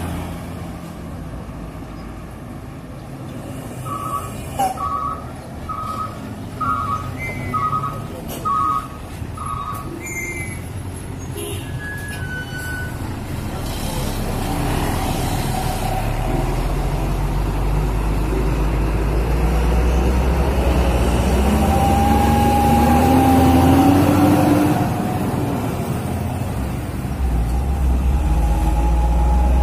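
A truck's reversing beeper sounds about six times in even succession. Then a heavy truck engine builds to a loud, low rumble that revs up in pitch about two-thirds of the way through.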